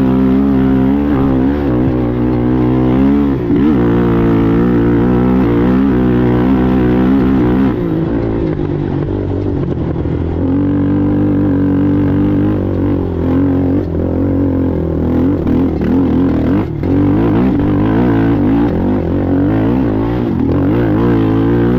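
ATV engine running hard under race throttle, its pitch rising and falling as the throttle is eased off and opened again, with several brief drops in sound along the way.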